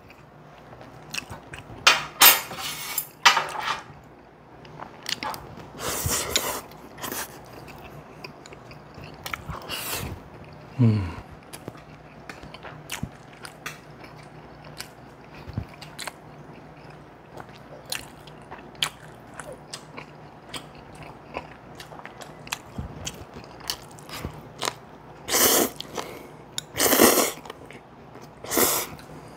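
People eating: chewing and biting into crunchy food, heard as scattered short crunches with a few louder bursts spread through.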